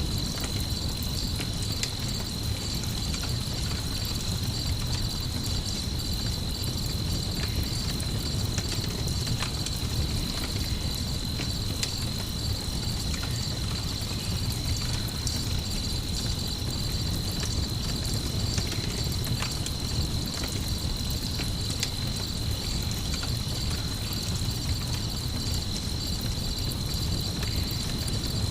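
Crickets trilling steadily in a high, even chirr over a crackling campfire with occasional sharp pops and a steady low rumble.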